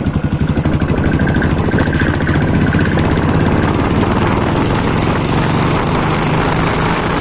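Royal Enfield Bullet single-cylinder motorcycle engine running through its stock silencer: a steady exhaust thump that quickens about a second in and holds at raised revs.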